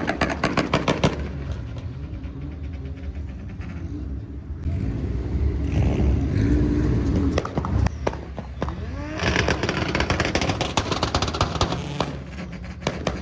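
Car engines held on a two-step launch limiter, a steady engine drone under rapid machine-gun-like exhaust pops and bangs. The pops come in a dense burst in the first second and again in the later part.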